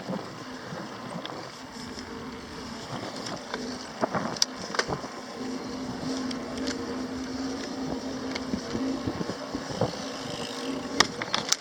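Wind rushing over the microphone and rolling noise from a moving bicycle, with a few sharp clicks and rattles. A low steady hum runs through the middle.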